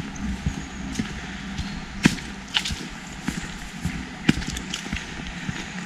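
Footsteps of a walker on a woodland path, an uneven series of sharp crunches and knocks at walking pace over a steady outdoor hiss.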